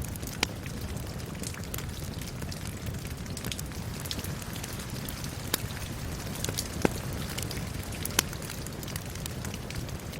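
Steady rain mixed with a crackling wood fire: a continuous hiss of rain under irregular, sharp pops and crackles, a few of them louder.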